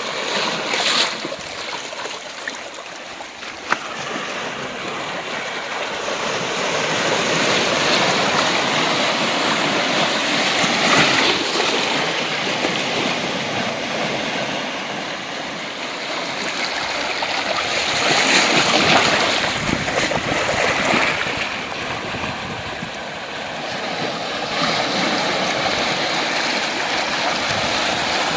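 Sea waves washing onto a rocky beach, a steady hiss of surf that swells up twice and then eases back.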